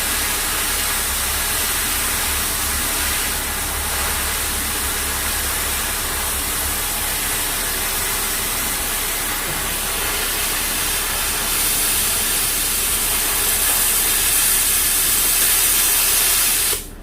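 Angle grinder grinding a steel axe blade for a hydraulic log splitter, a loud steady hissing grind that cuts off suddenly near the end.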